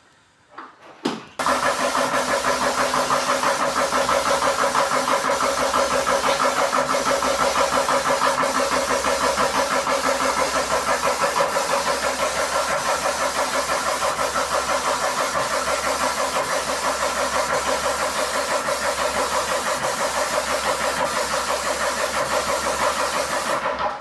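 Airless paint sprayer's pump running with a rapid, even pulsing. It starts suddenly about a second in and cuts off just before the end.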